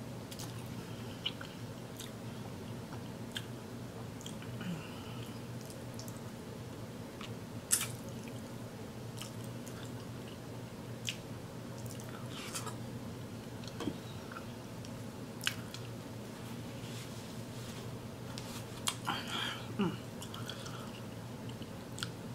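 A person chewing and biting seafood boil shrimp dipped in sauce, with scattered sharp wet clicks from the mouth. A steady low hum runs underneath.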